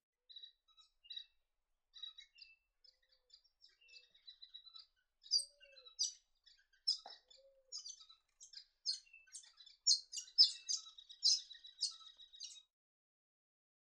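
Painted finches calling: a run of short, high chirps, sparse at first, then busier and louder from about five seconds in.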